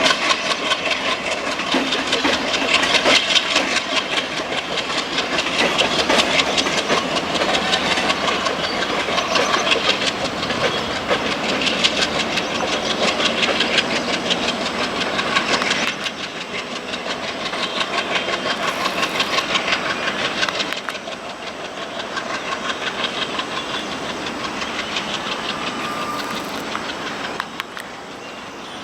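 Passenger train running past, its engine chugging and its wheels clattering over the rail joints. It grows quieter in steps as the train draws away.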